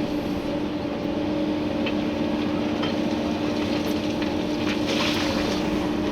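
Komatsu PC290-11 excavator heard from inside the cab, its engine and hydraulics running with a steady hum. A few faint knocks and a short rattling hiss come about five seconds in.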